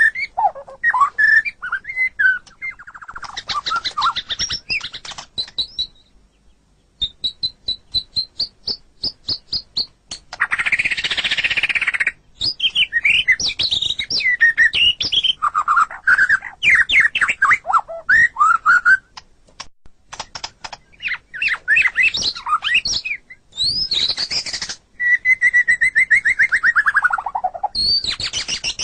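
White-rumped shama (murai batu) singing a long, varied song of whistled phrases and rapid trills, with a harsh rasping note about eleven seconds in and a long falling trill near the end.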